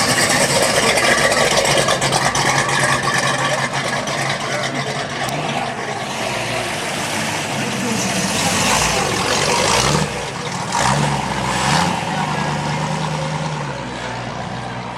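Car engine running at idle, with a few short revs about two thirds of the way through, over the chatter of a crowd.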